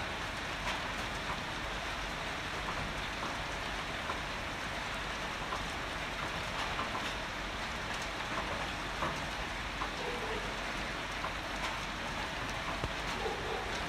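Steady heavy rain, with many individual drops ticking sharply and close through the even hiss of the downpour.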